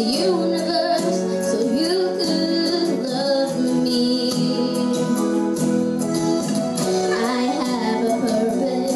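A song with female and children's voices singing over instrumental accompaniment, the sung notes held and gliding.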